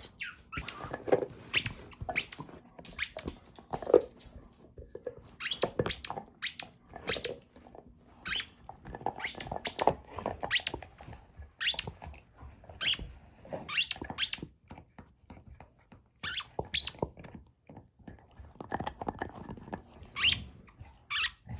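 Dogs playing with squeaky chew toys: irregular short squeaks and chewing clicks, on and off.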